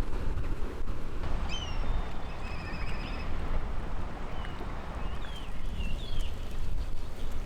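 Sea wind rumbling on the microphone, with a bird's high whistled calls and a short trill about two to three seconds in, and a few more swooping high calls around six seconds.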